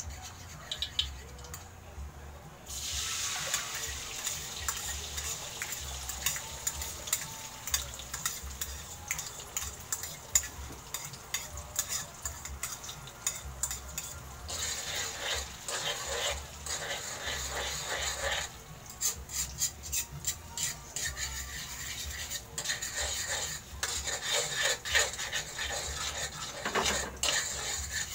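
Beaten egg hitting hot oil in a metal wok and sizzling steadily from about three seconds in, with a utensil scraping and tapping against the wok.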